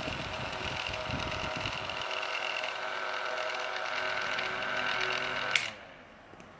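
Vintage Nikota Hurricane-style electric table fan running with a steady motor hum and air rush. About five and a half seconds in, a sharp click comes and the running sound drops away to a faint remainder: the fan being switched off.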